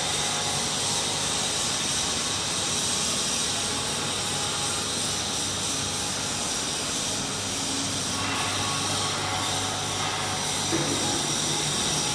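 Bucket wheel sand washing machine running: a steady mechanical rushing noise over a low, even motor hum, unchanging throughout.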